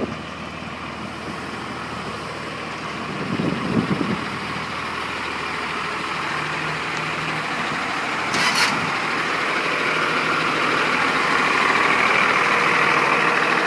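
Bus engine idling, a steady running sound that grows gradually louder. There is a brief low rumble about four seconds in and a short hiss about eight seconds in.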